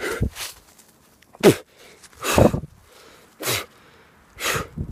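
A man's short, forceful huffs of breath, five of them about a second apart, as if he is sputtering or straining.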